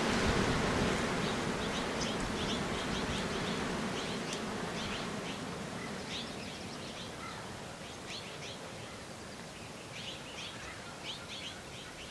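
Small birds chirping in quick, high notes, repeated all through, over a rushing wind-like noise that is loudest at first and slowly eases off.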